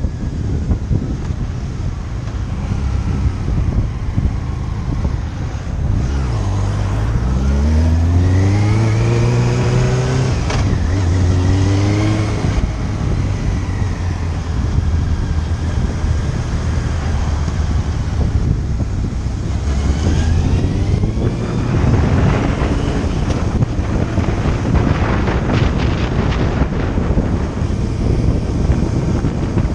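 Motorcycle engine accelerating through the gears: the engine note climbs, drops at two gear changes, holds steady at cruise, then climbs again. Steady wind noise on the microphone runs under it.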